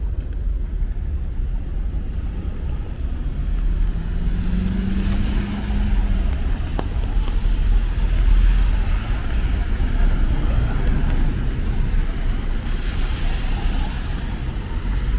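City street traffic in the rain: a steady low rumble of cars, one vehicle's engine hum rising in pitch about four seconds in, and a swell of tyre hiss on the wet road near the end.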